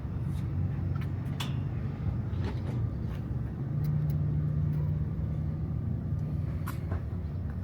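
Steady low rumble of a pickup truck's engine and road noise heard from inside the cab, with a few faint clicks.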